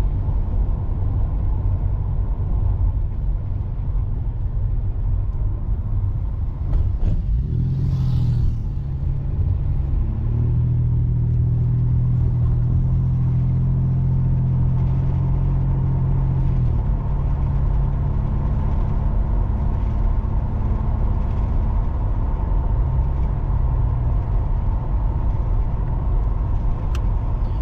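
Ford EL Falcon's 4.0-litre SOHC straight-six running through Pacemaker 4499 headers, a Venom high-flow cat and a 2.5-inch sports exhaust: a steady exhaust rumble. About seven seconds in the engine note rises, holds higher for several seconds, then falls back about sixteen seconds in.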